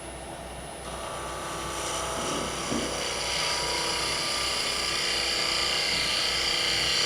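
Wood lathe motor humming while a gouge cuts a spinning hard maple knob. The steady cutting noise comes in about a second in and holds over the hum.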